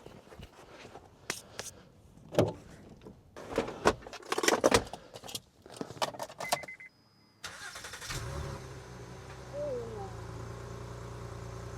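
Car cold start: a series of clicks and knocks as the car is handled and keys are worked, a short electronic beep, then the engine cranks and catches about eight seconds in and settles into a steady idle through its dual exhaust.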